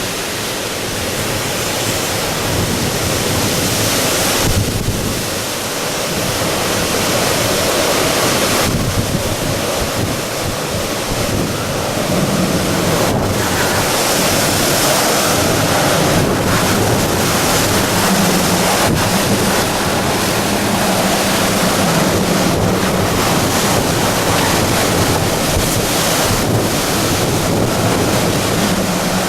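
Typhoon wind blowing hard in gusts, buffeting the microphone. A faint low hum comes and goes in the second half.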